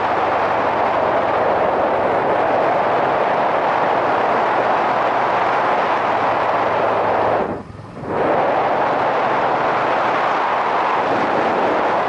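Yamaha SRX400 single-cylinder motorcycle riding along, heard from a helmet-mounted camera: a steady rush of wind and road noise over a low engine hum. The sound drops away briefly about seven and a half seconds in, then comes back.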